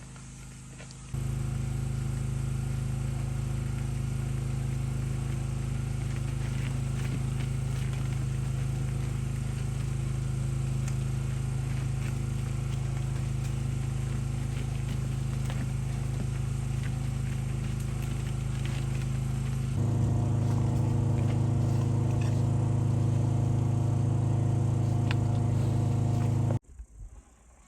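A motor running with a steady, even hum that starts about a second in, shifts to a slightly louder, different pitch near the end, then cuts off suddenly.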